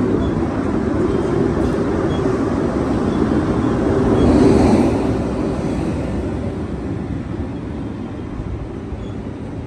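A train passing on the tracks, a continuous low noise that swells about halfway through and then slowly fades.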